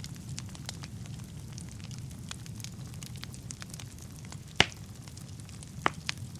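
Wood fire burning in a fireplace: a steady low rumble of flames with scattered crackles and pops, one sharp loud pop a little over four and a half seconds in and a couple more near the end.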